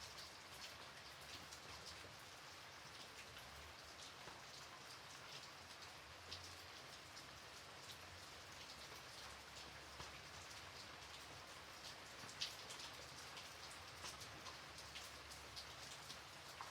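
Gentle rain falling steadily and faintly: an even hiss with many scattered drop ticks, one sharper drop about twelve seconds in.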